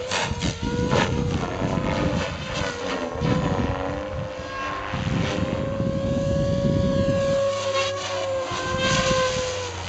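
Radio-controlled Goblin helicopter with a three-blade main rotor flying aerobatics: a steady whine that drifts slightly up and down in pitch, over an irregular low rumbling of rotor noise.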